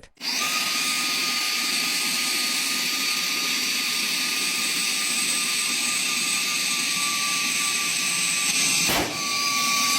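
Mini handheld vacuum cleaner running in blower mode to inflate something, a steady rush of air over a high, even motor whine. The sound dips briefly about nine seconds in and then carries on.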